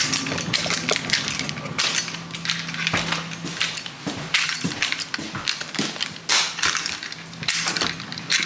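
Irregular clatter of small hard objects being handled: many quick knocks and clinks, over a steady low hum.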